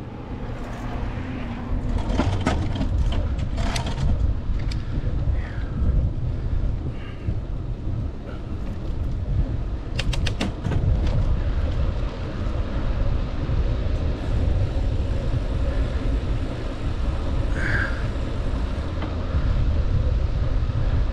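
Rumbling wind and riding noise from a bicycle ride, with a few sharp clicks and rattles about two to four seconds in and again around ten seconds.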